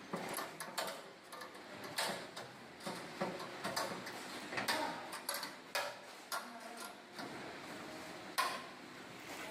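Irregular mechanical clicks and knocks from an Ekodil 250 guillotine-style slicing machine being worked, some with a short metallic ring.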